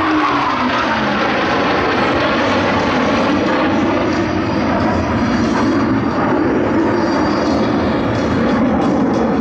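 A formation of F/A-18 Hornet fighter jets flying past, a loud steady jet roar. A whining engine tone drops in pitch in the first second as the jets go by.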